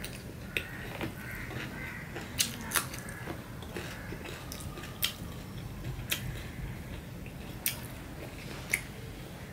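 A person chewing a mouthful of rice and vegetable curry eaten by hand, with short, sharp wet lip smacks about eight times, irregularly spaced, over a faint steady low hum.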